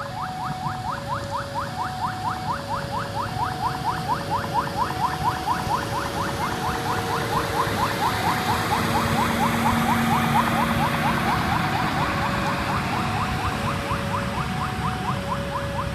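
A passenger train running past, its rumble and wheel noise swelling to a peak about ten seconds in. Under it an electronic level-crossing warning bell repeats a two-tone chime, low then high, with fast ticking about five times a second.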